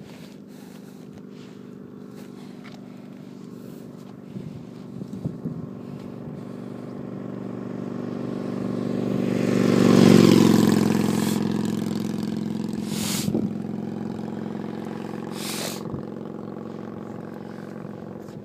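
A motor vehicle drives past at a steady engine note. It grows louder to its closest point about ten seconds in, then fades away. Two short rushes of noise follow.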